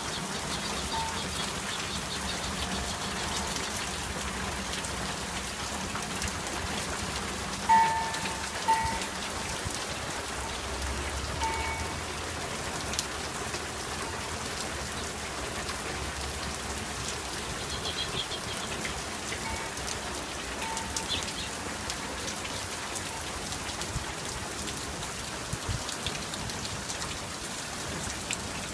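Steady rain falling and pattering on surfaces. A few short pitched plinks stand out, the loudest two about a third of the way in.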